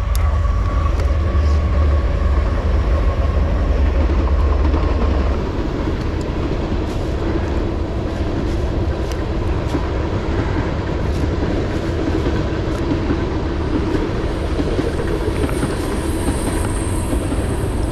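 A train running along the tracks below, a loud, steady rumble that eases somewhat about five seconds in. Dry leaves crunch and rustle underfoot.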